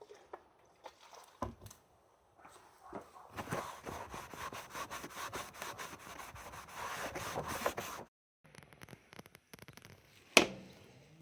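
A Volkswagen Golf trim ring being worked by hand: scattered handling clicks, then several seconds of dense, scratchy rubbing that stops abruptly, and one sharp knock near the end.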